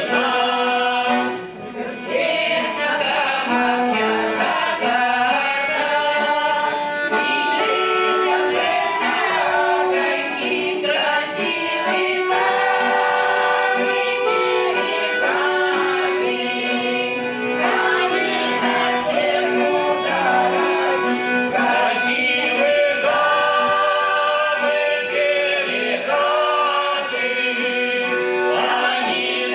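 A folk vocal ensemble singing a Russian song together in long held notes, with instrumental accompaniment.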